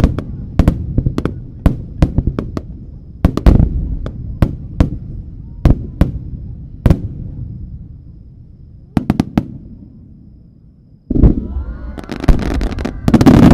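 Starmine fireworks display: a quick series of sharp bangs from shells bursting overhead, thinning out in the middle, then a dense volley of bangs and crackling near the end.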